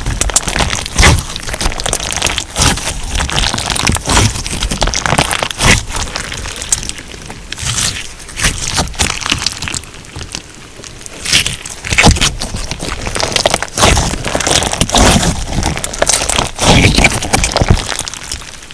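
Crunch slime being squeezed and pressed by hand: dense, irregular crackling and popping, easing off for a moment about ten seconds in.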